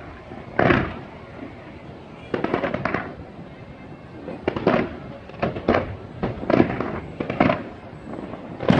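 Aerial fireworks bursting in a series of bangs and crackles: one bang about a second in, a crackling cluster near the third second, then several more bursts in quick succession through the second half.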